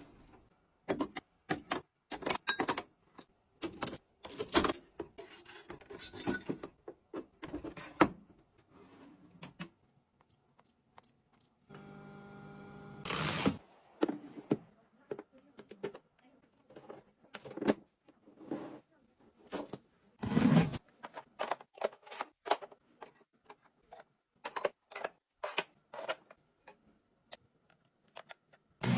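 Irregular clicks, knocks and clatters of small household gadgets being handled and operated. About a third of the way in come three short high beeps, then a buzz of about a second and a half.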